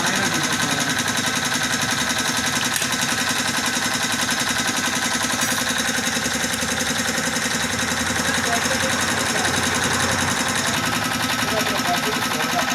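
Small motorcycle engine idling steadily, with a fast, even beat.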